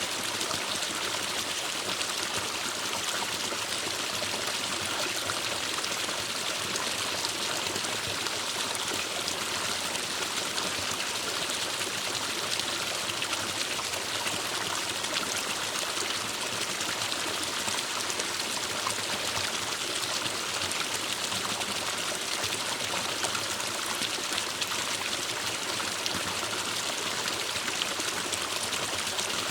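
Forest stream flowing and trickling, a steady, even rush of water.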